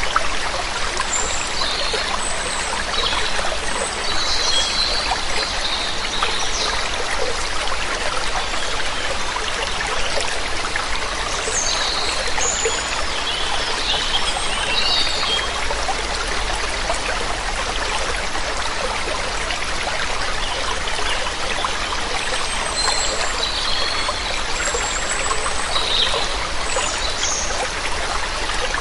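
Waterfall rushing steadily, with small birds chirping now and then above the water.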